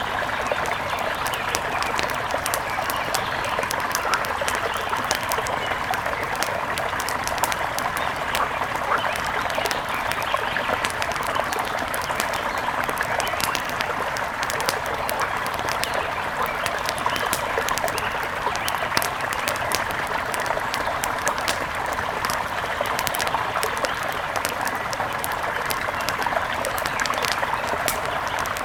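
Steady rush of a mountain river with the irregular crackle and pops of a wood fire over it.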